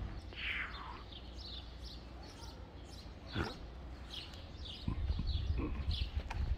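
Small birds chirping in short high calls, with one longer falling call near the start. A single sharp click a little after three seconds, and a low rumble comes in at about five seconds.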